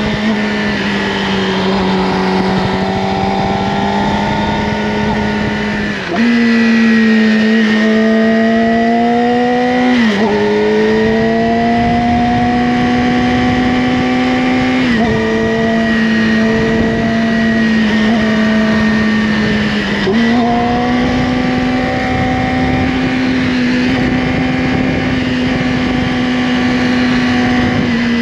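Yamaha R6 inline-four engine through an Akrapovic slip-on exhaust, heard from the rider's seat, running at a steady cruise. Its pitch jumps suddenly about four times as the rider changes gear, easing off slowly after each jump.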